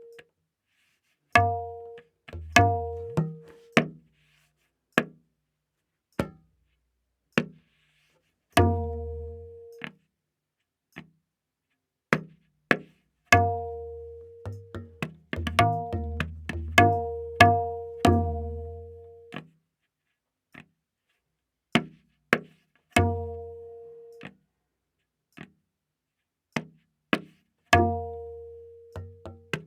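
Tabla playing a slow vilambit ektaal theka, the dayan tuned to A#: widely spaced ringing strokes on the right-hand drum, many joined by deep booming bass strokes on the bayan, with gaps of a second or more between phrases and a denser run of strokes mid-way.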